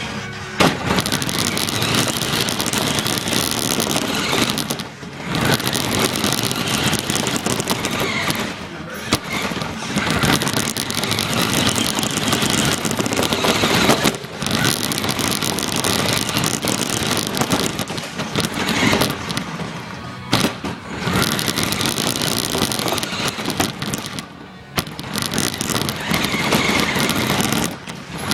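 Loud, rough noise of an RC car driving, picked up by an iPod taped to the car, with several brief sudden drops.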